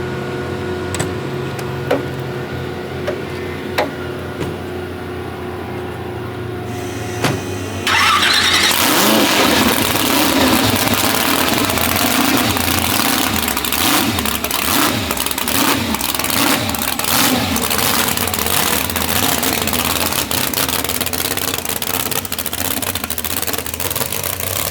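1500 HP Rolls Royce drag car's engine starting about eight seconds in, after a few knocks, then running loudly with its revs rising and falling.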